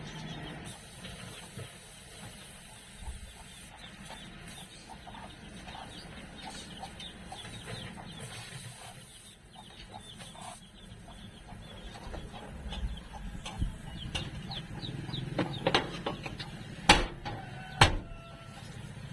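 Chickens clucking, with two sharp knocks about a second apart near the end.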